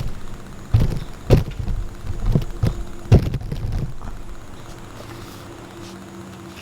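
A handful of dull thumps and clunks in the first four seconds, over a faint steady mechanical hum.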